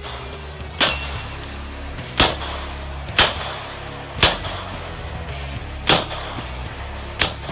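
Six gunshots fired at a steady pace, roughly one a second, over background music.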